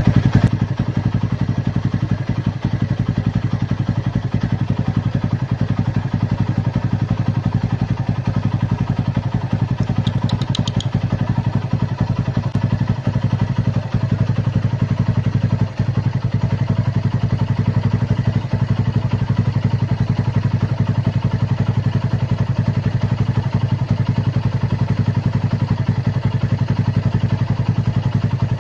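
An engine running steadily at idle, a low even throb with no change in speed.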